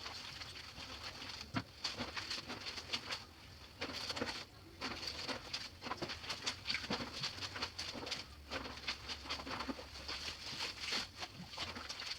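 Clothes being washed by hand in a basin: irregular splashing and sloshing of water with fabric being rubbed and wrung, in quick uneven strokes.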